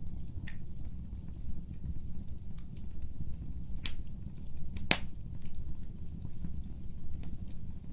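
Fire burning: a low steady rumble of flames with sharp crackling pops, the loudest about five seconds in, and fainter ticks between.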